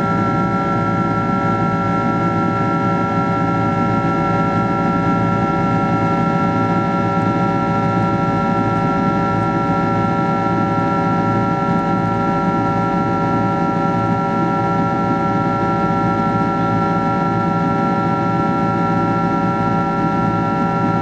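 Cabin noise of a Boeing 767-336ER under take-off power: its Rolls-Royce RB211 turbofans give a steady drone with several steady tones held over airflow noise, unchanging throughout.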